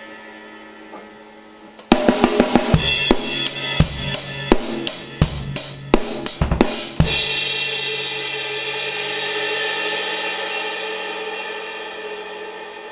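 Drum kit: after a fading ring, a quick run of drum and cymbal hits starts about two seconds in, ends on a last hit about seven seconds in, and a cymbal wash then rings on and slowly fades.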